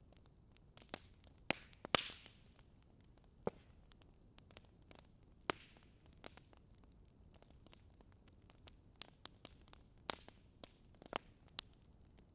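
Wood fire crackling: irregular sharp pops and snaps over a faint steady hiss, the loudest pop about two seconds in.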